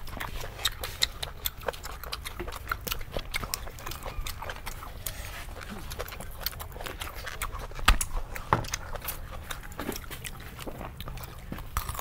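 Close-miked mouth sounds of a man eating pork organs with his fingers: wet chewing and lip smacking, a quick run of small clicks several times a second, with one louder knock about eight seconds in.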